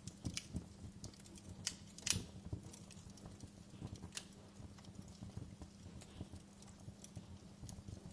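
Wood fire crackling in a fireplace: irregular sharp pops and snaps, the loudest about two seconds in, over a faint low hum and hiss.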